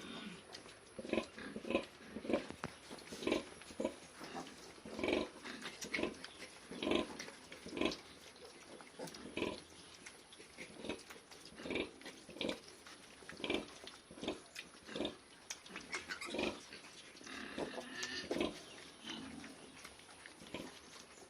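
Pigs grunting, a long run of short grunts about one or two a second.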